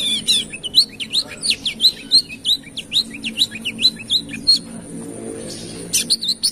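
Sunbird (kolibri kelapa, or wiceh) singing: a rapid string of sharp, high chirps, each sweeping down in pitch, about four a second. The song breaks off about four and a half seconds in and starts again near the end.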